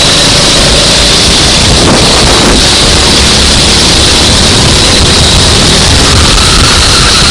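Racing kart engine running at speed, overdriven and mixed with wind rushing over the microphone.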